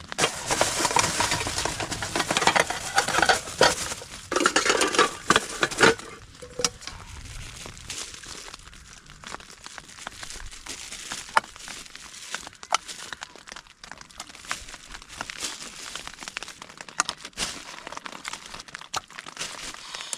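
Crinkling rustle with many clicks, heavy for about the first six seconds, then lighter with scattered clicks.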